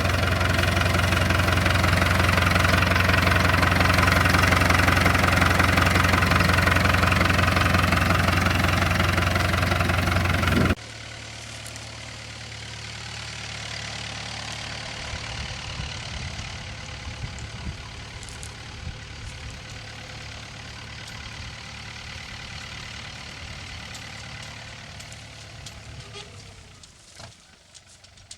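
Farm machinery engine running steadily and loud, cut off abruptly about eleven seconds in. A quieter, more distant engine follows and fades out near the end, with a few faint clicks.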